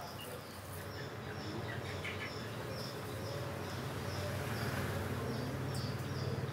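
A small bird chirping over and over, about twice a second, high and short, over a low steady hum.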